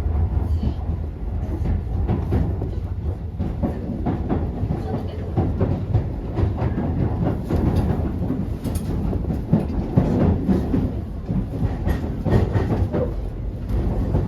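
Keisei 3000 series electric train running, heard from inside the carriage: a steady low rumble with the wheels clicking over rail joints.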